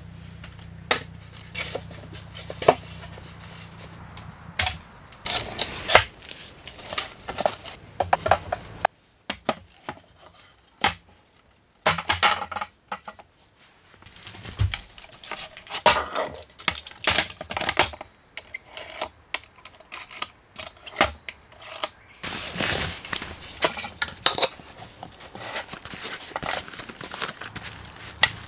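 Cooking utensils and dishes clinking and knocking in irregular clusters of short, sharp clacks, with brief pauses between them.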